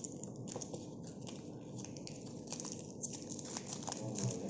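Hands handling a thermal receipt paper roll and an EDC card terminal: faint, irregular small clicks and crinkles.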